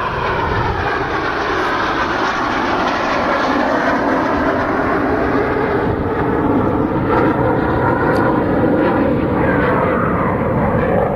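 Jet noise from a formation of BAE Hawk T1 jet trainers flying past, a steady loud rush of engine noise with whines that slide down in pitch as the aircraft pass.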